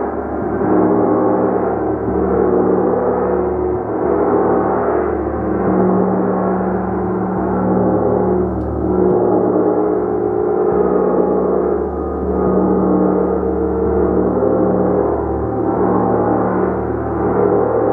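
A large gong played continuously in a dense, sustained wash of many overlapping ringing tones, swelling and ebbing in waves every couple of seconds.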